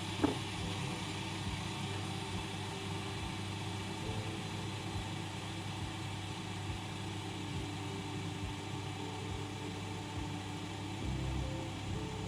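Steady mechanical hum with an airy hiss, like a small motor or fan running, and a single light tap just after the start.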